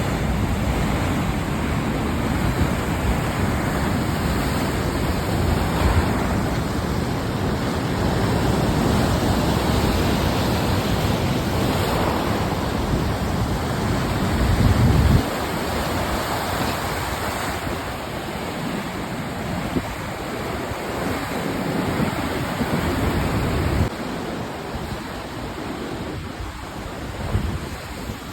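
Stormy Black Sea surf washing on the shore, with strong gusty wind buffeting the microphone. The low wind rumble drops off suddenly about halfway through and again a few seconds before the end.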